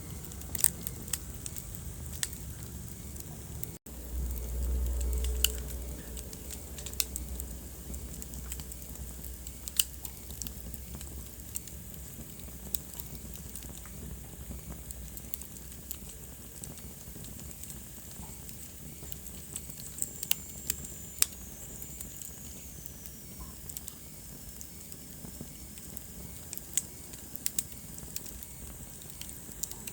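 Wood fire crackling: a soft steady hiss with sharp pops and snaps scattered throughout. About four seconds in, the sound drops out for an instant, and a low rumble follows for about two seconds. A faint falling whistle comes around twenty seconds in.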